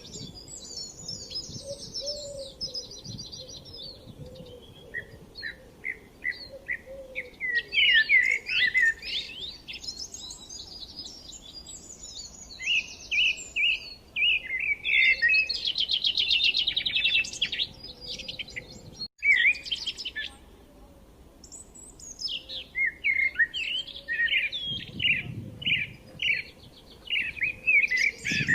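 Several birds singing and chirping at once, quick repeated chirps and fast trills overlapping throughout. The sound cuts out for an instant about two-thirds of the way through.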